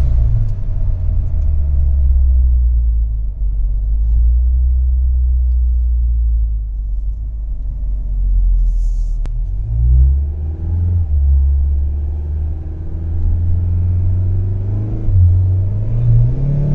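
Cabin sound of a 2019 Mazda CX-5 with a Corksport aftermarket intake and exhaust: the turbocharged 2.5-litre four-cylinder gives a deep, steady rumble under way. The pitch drops around nine seconds in, then climbs again, and rises once more near the end as the engine revs up.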